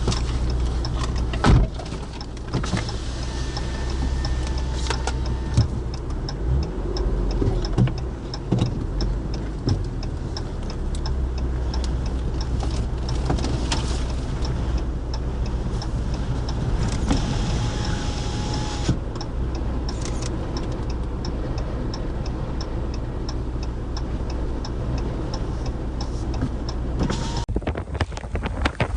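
A motor vehicle runs with a steady low rumble, and a light, regular ticking repeats throughout.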